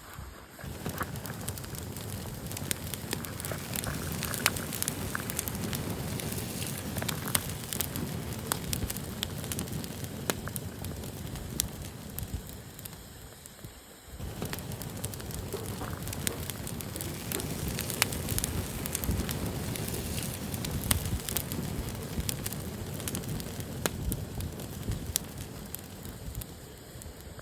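Wood campfire burning, with a steady low rumble of flame and frequent sharp crackles and pops. It dips quieter briefly about halfway through.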